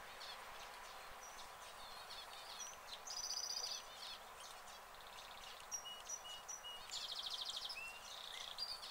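Small birds chirping, whistling and trilling over a steady hiss of outdoor background noise, with rapid trills about three seconds in and again around seven seconds in.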